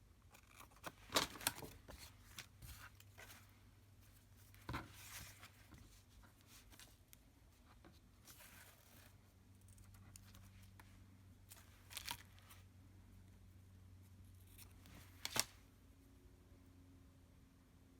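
Paper being handled on a craft table: a handful of short, crisp paper sounds, the loudest about a second in and near fifteen seconds, with others near five and twelve seconds, over a faint steady hum.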